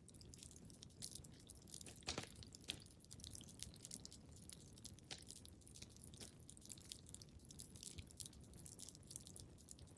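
Wood fire crackling in a fireplace, quietly: a steady patter of small crackles over a low rumble, with a couple of louder pops about two seconds in.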